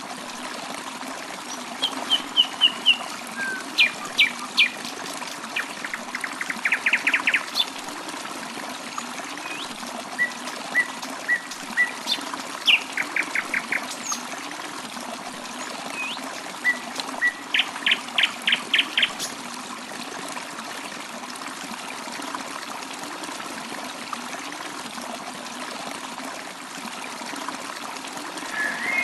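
Birds chirping in quick runs of short repeated notes over a steady trickle of running water.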